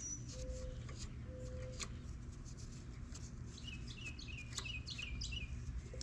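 Birds calling: three short, low held hoots in the first two seconds, then a run of quick, repeated chirps from about three and a half to five seconds. Faint scattered clicks sound over a steady low background hum.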